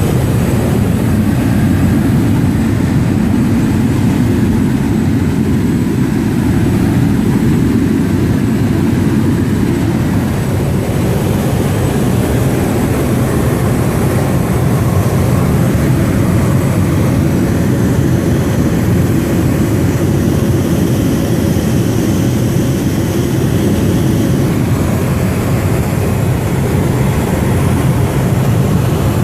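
Small propeller aircraft in flight: a steady, loud engine and propeller drone with no change in pitch.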